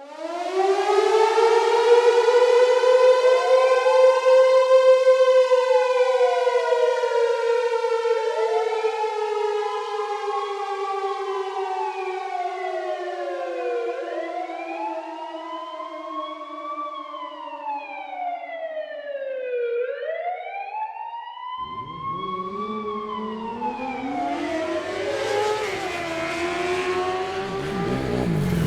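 Siren-like wailing: a long tone that climbs at the start and then slowly sinks in pitch, with other tones sweeping up and down over it. A low rumble and rushing noise come in about two-thirds of the way through and grow toward the end.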